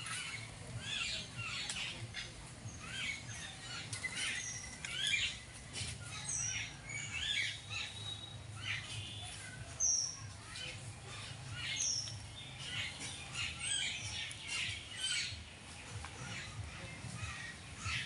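A chorus of birds chirping and squawking, with many short calls overlapping constantly and a few clear high notes that drop in pitch.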